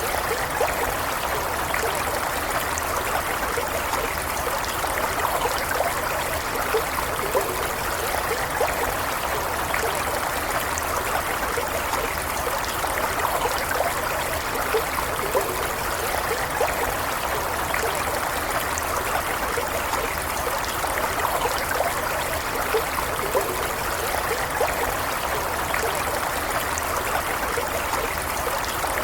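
Stream water running steadily over stones, with small trickles and splashes flickering through an even rushing sound.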